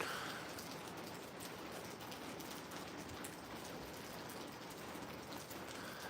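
Steady rain falling, a soft hiss with fine patter of raindrops on surfaces.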